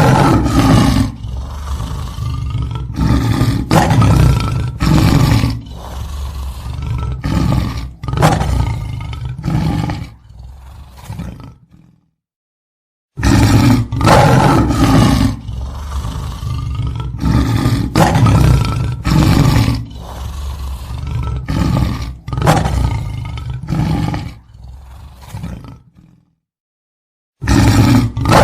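Lion roaring: a bout of loud, deep roars that grow shorter and fainter towards the end, lasting about eleven seconds. After a brief silence the same bout plays again, and a third begins near the end.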